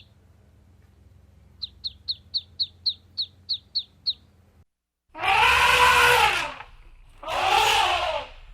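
A bird gives about ten quick, high chirps, roughly four a second. After a short break come two long, loud animal calls, each rising and then falling in pitch.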